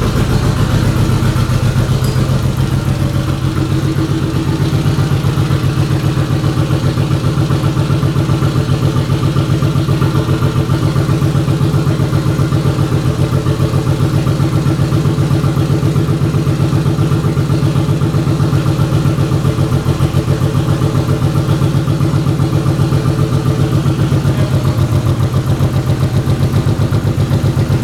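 Mitsubishi VR-4 twin-turbo 3.0 L V6, newly swapped in, running at a steady idle on its first start-up.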